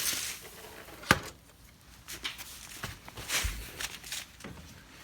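Footsteps and scuffing as a person moves and gets down under a car, with a sharp click about a second in and a dull thump about three and a half seconds in.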